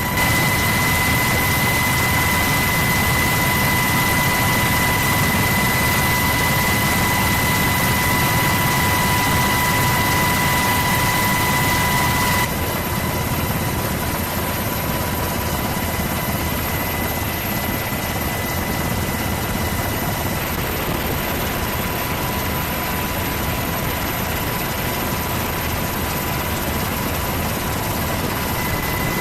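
Steady, loud aircraft engine noise: a constant rushing drone with a high whine held on one pitch. About twelve seconds in, the sound drops a little and the whine weakens, as if cutting to another shot of the aircraft.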